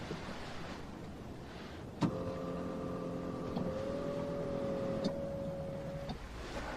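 A small electric motor starts with a click and runs with a steady hum for about four seconds, then stops with a click, like a car's power window or electric sunroof moving.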